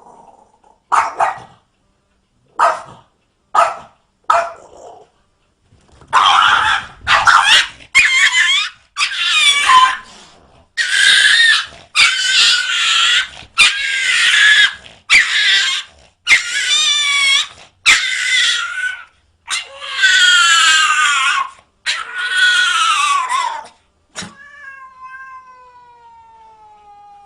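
Cats yowling and caterwauling: a few short cries, then a run of long, loud, wavering yowls, ending in a quieter, drawn-out call that falls in pitch.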